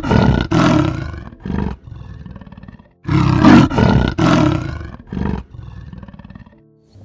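A large wild animal roaring twice. Each long, loud roar is followed by a few shorter grunts that fade away.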